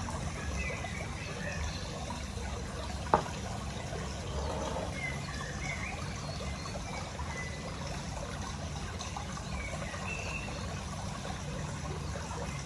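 Steady trickle of running water over a low hum, with one sharp click about three seconds in.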